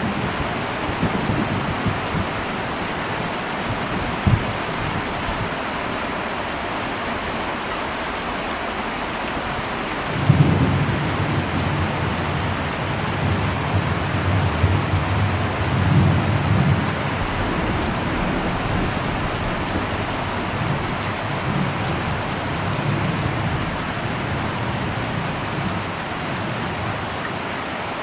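Heavy rain falling steadily on an old metal roof, an even hiss throughout. About ten seconds in, thunder breaks in with a low rumble that rolls on, swelling again a few times before easing off near the end.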